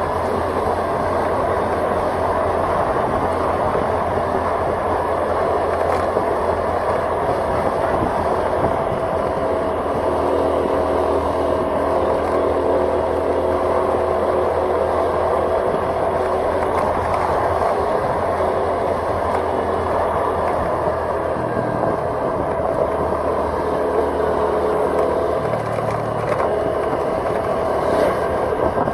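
Steady engine and road noise from a vehicle being driven along a road.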